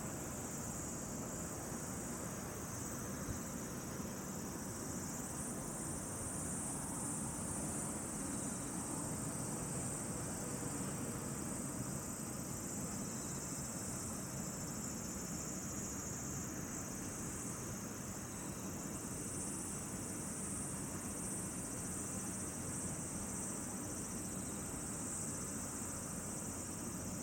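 Steady insect chorus of crickets: a continuous high-pitched shrilling that never breaks, over a low background rumble.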